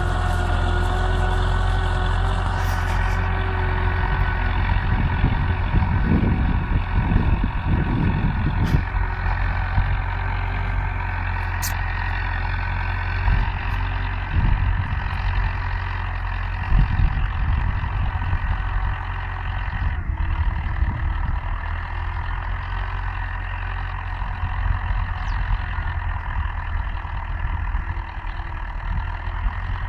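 Universal U650 tractor's four-cylinder diesel engine running steadily under load while pulling a PP3 plough, a deep, even rumble with a steady engine tone.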